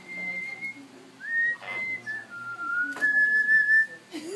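Yellow-naped Amazon parrot whistling a short tune: a string of clear whistled notes at different pitches, the last one held longest.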